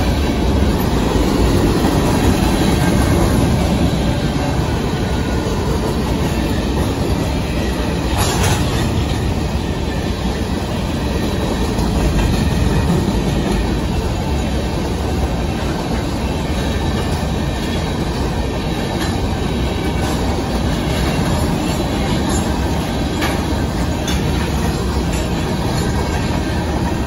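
Union Pacific grain train's covered hopper cars rolling past, a steady rumble of steel wheels on rail with occasional clacks.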